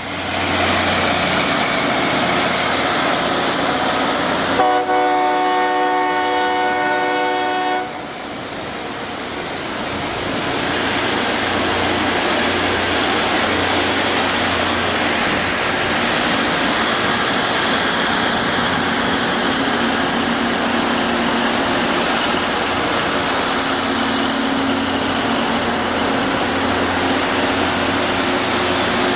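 Loram rail grinding train working the track, its grinding stones on the rails making a loud, steady harsh noise. About five seconds in, the train's horn sounds once for about three seconds.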